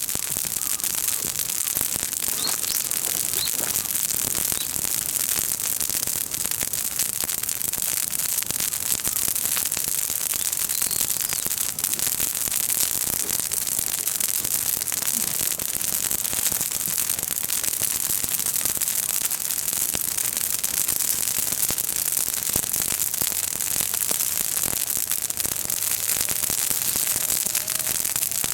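Bonfire of freshly broken green chestnut leaves and twigs burning with a dense, continuous crackle of many fast pops.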